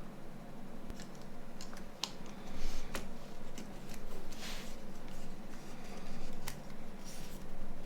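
Small, sharp clicks and taps of plastic and metal phone parts being handled and fitted while a Nokia 9210 is reassembled, with a couple of brief scraping rustles about four and a half and seven seconds in.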